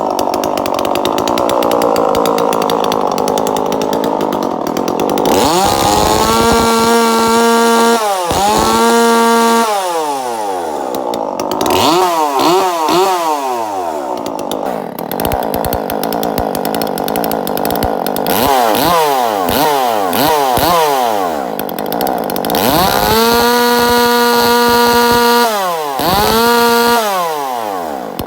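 Husqvarna 136 two-stroke chainsaw, fitted with a 42cc big bore kit, being revved during carburetor tuning. It idles unevenly at first, then is run up to full throttle about half a dozen times. Some revs are held for a second or two, and it drops back to idle between them.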